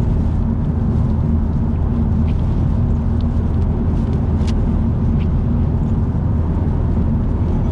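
A car driving at expressway speed: steady road and engine rumble with no change, and a few faint short ticks.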